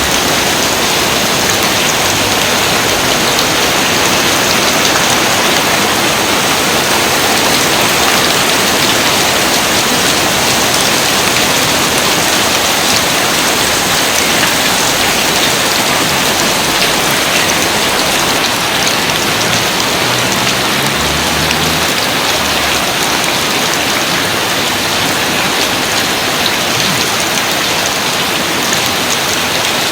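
Steady, heavy rain falling: a dense, even hiss of countless drops that holds at one level throughout.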